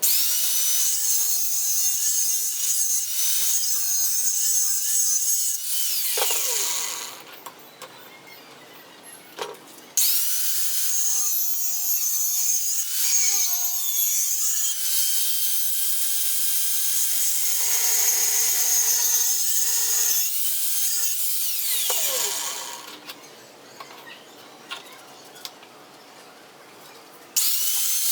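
Angle grinder cutting into steel box bar, run in three bursts. It winds down with a falling whine about six seconds in, starts again at ten seconds, winds down again around twenty-two seconds, and starts once more near the end.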